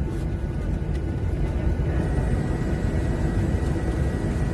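Airliner cabin noise after landing: a steady low engine and airflow rumble while the jet taxis, with a faint high whine coming in about halfway through.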